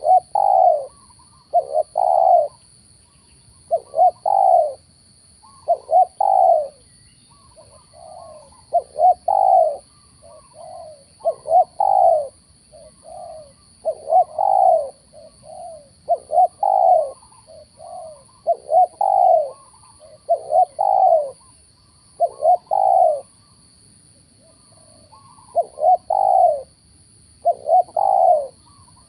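Spotted dove cooing over and over, one call phrase every second or two, with softer calls in between.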